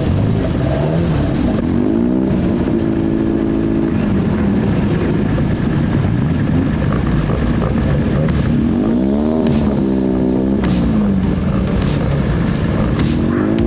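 Car engine running loud, its revs rising, holding and dropping back several times over a steady low rumble.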